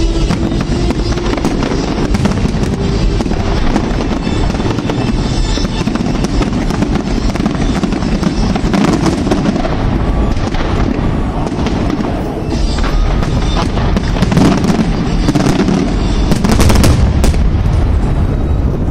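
A large aerial fireworks display going off without pause: overlapping booms and crackling bursts, with a louder cluster of crackling bangs near the end. Music plays underneath.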